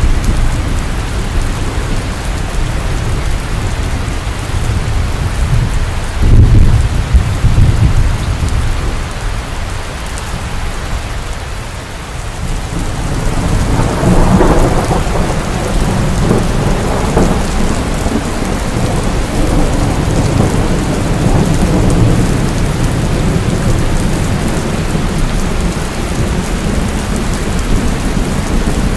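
Steady rain falling, with thunder: a low rumble about six seconds in, then a longer rumble that swells up from about thirteen seconds and slowly fades.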